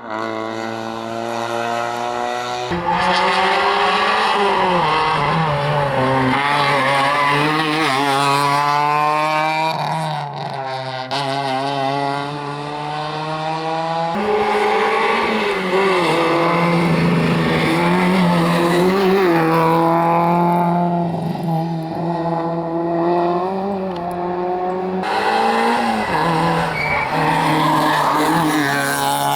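Rally car engines revving hard, one car after another: the pitch climbs and drops repeatedly as the cars accelerate, shift and brake, with abrupt changes about three, fourteen and twenty-five seconds in as one car gives way to the next.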